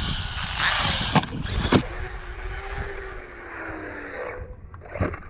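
Electric RC car driving: a loud rush of motor and tyre noise with two sharp knocks, then a thin motor whine that wavers and falls in pitch as the car slows and fades. A short sharp knock comes near the end.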